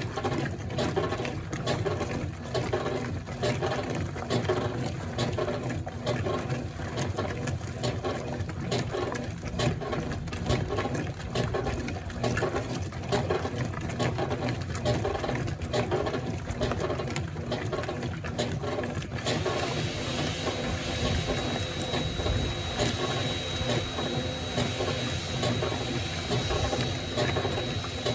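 Consul Facilite CWG12 top-loading washing machine running a wash cycle: the agitator churning back and forth in rhythm, with mechanical clicking and water sloshing. About two-thirds of the way in, a steady hiss and a thin high whine join in.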